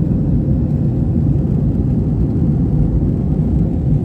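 Steady low rumble inside the passenger cabin of an Airbus A321 with its jet engines running, plus a faint steady hum.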